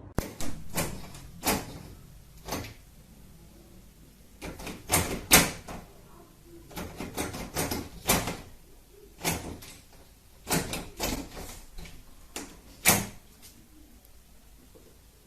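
An irregular series of sharp knocks and bangs, about twenty in all, loudest about five seconds in and again near thirteen seconds, then they stop.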